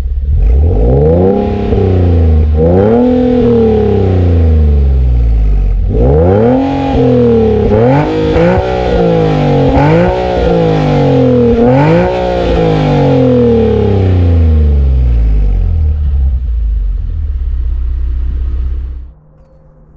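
Infiniti V6 with an HKS aftermarket exhaust being revved about six times, each rev rising and dropping back, then settling to a steady idle before the sound cuts off near the end.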